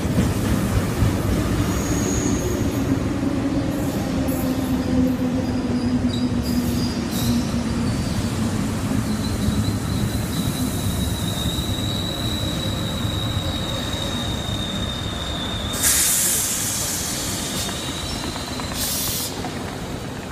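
RER commuter train running along a station platform, a steady rumble of wheels on rail. A long high wheel squeal holds through the middle, and two short loud hisses come near the end.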